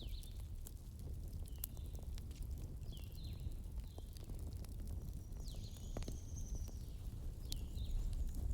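Wood fire in a fireplace crackling, with scattered sharp pops over a steady low rumble. Short high squeaks, falling in pitch, come every second or so, and a longer high whistle sounds about halfway through.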